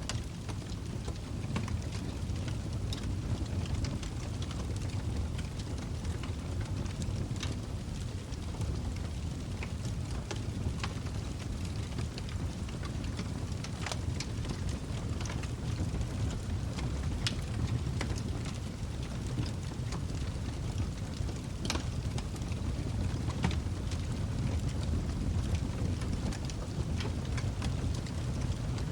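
Log fire burning in a fireplace: a steady low rumble of the flames with frequent sharp, irregular crackles and pops from the burning wood.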